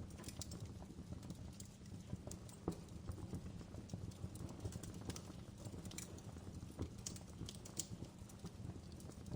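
Wood fire burning in a fireplace: a steady low rumble with irregular crackles and small pops, the sharpest pop about two and a half seconds in.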